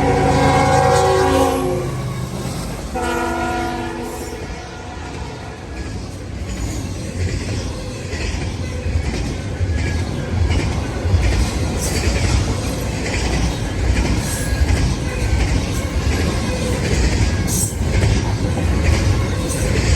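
A diesel locomotive's Nathan K5HL five-chime air horn sounds a long blast that stops about a second and a half in, then a short blast about three seconds in. After that comes the steady rumble of the intermodal train passing, with its wheels clattering and knocking over the rails.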